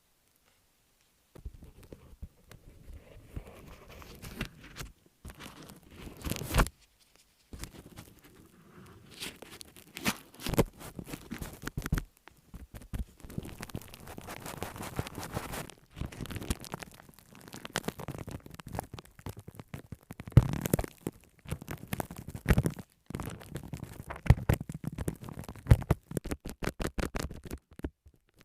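Close-miked ASMR handling sounds: irregular taps and clicks, scraping and crinkling, broken by a few short pauses, with a quick run of taps near the end.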